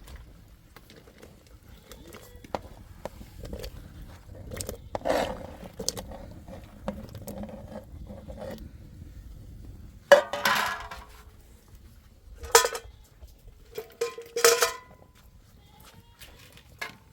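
Cooking pots and metal utensils knocking and clanking. Scattered handling noise comes first, then three loud clanks with a short ring in the second half.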